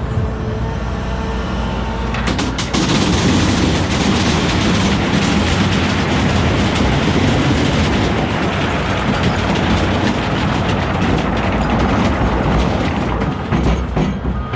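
Cat 972M XE wheel loader working: its engine runs with a steady tone, then about two seconds in a loud, continuous rumbling clatter sets in and eases off just before the end.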